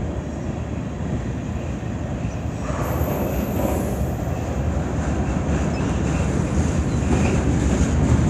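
Freight train cars rolling past, a steady rumble of steel wheels on the rails with some clickety-clack, growing a little louder toward the end.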